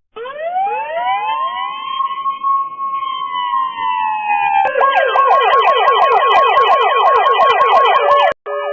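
Police car siren: a slow wail that rises and holds, with several staggered copies overlapping, then about halfway through switching to a fast yelp of about four to five sweeps a second. It cuts off shortly before the end, and a different steady siren tone begins.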